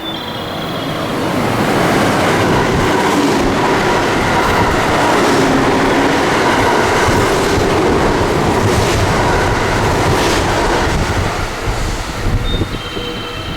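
A train passing through the station at speed without stopping: the rumble and clatter of its wheels on the rails build up over the first two seconds, stay loud for about nine seconds, then fade as it leaves.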